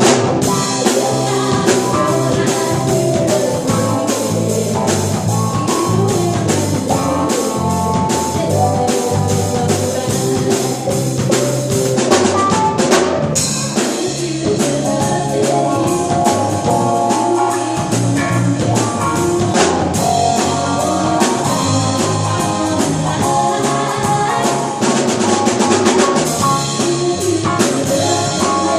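Live band playing an instrumental passage of a pop cover, a drum kit keeping a steady beat under bass and chords.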